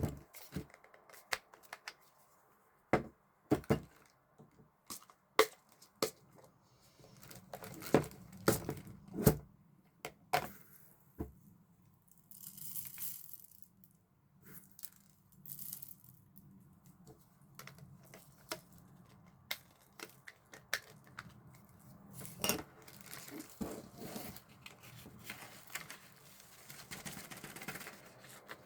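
Plastic crinkling and tearing with scattered clicks and knocks as an electric spice grinder is opened and filled with coriander seeds.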